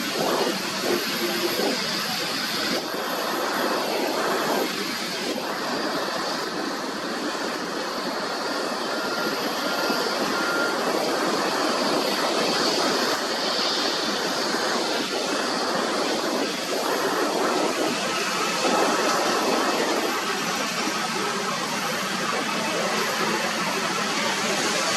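Jet airliner engines heard from outside the aircraft as a steady rush of noise with little bass, swelling slightly after the middle.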